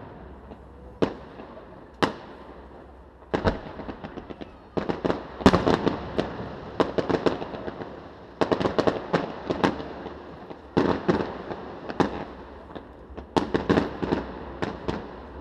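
Aerial firework shells bursting: single bangs about a second apart at first, then dense volleys of cracks and pops, each trailing off in an echo.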